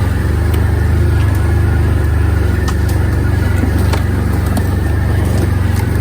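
ATV engine running steadily, with a few scattered light clicks and knocks.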